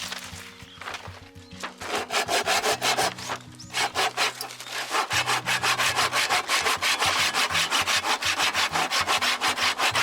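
Hand saw cutting through wood in quick, even back-and-forth strokes, about five a second, with a brief pause a little before the middle.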